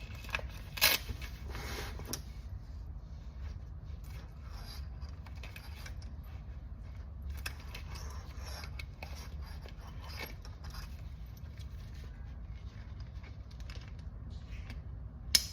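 Small clicks, rustles and scrapes of objects being handled, with a sharp click about a second in and another near the end, over a steady low hum.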